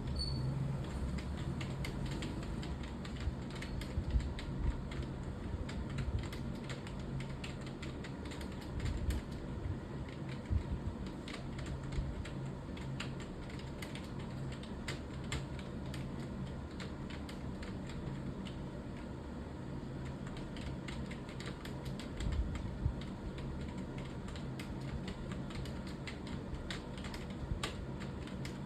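Fast, continuous typing on a computer keyboard: a steady stream of key clicks with a few heavier strokes.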